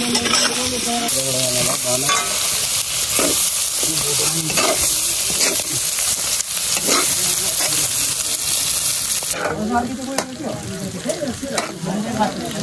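Pieces of pork sizzling in a wok over a wood fire while a spatula scrapes and stirs through them. About nine seconds in the sizzling cuts off abruptly.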